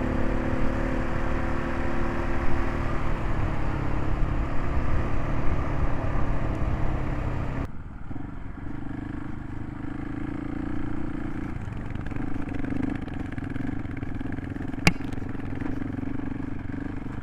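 Single-cylinder dual-sport motorcycle engine running under way, with wind and road noise. About eight seconds in, the sound changes abruptly to a quieter, steadier engine tone with less rushing noise. A single sharp click comes near the end.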